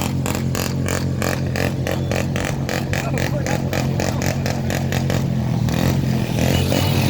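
A motor vehicle's engine running steadily, with a rapid, even clatter about four times a second that dies away about five seconds in.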